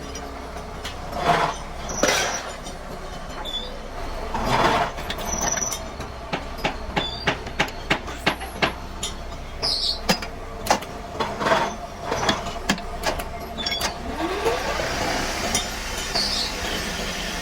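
Metalworking workshop noise: a run of sharp knocks and clinks, coming two or three a second through the middle stretch, with a few longer swishes over a steady low hum.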